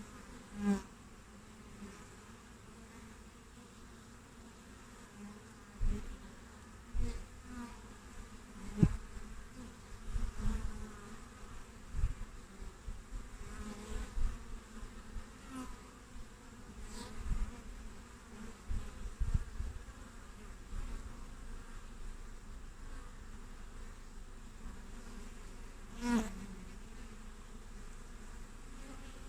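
Honeybees buzzing at a hive entrance: a steady background hum with individual bees flying close past the microphone, each passing buzz swelling and fading, some dropping in pitch as they go by. A few low thuds are mixed in among the passes.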